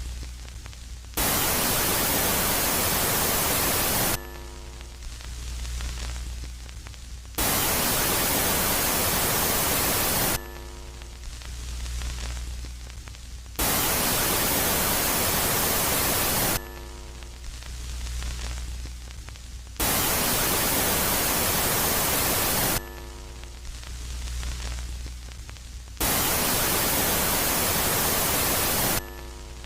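Electronic space-ambient sound presented as the moon Megaclite: loud white-noise hiss that switches on and off abruptly in phases of about three seconds, five times, alternating with quieter phases of low hum and faint steady tones.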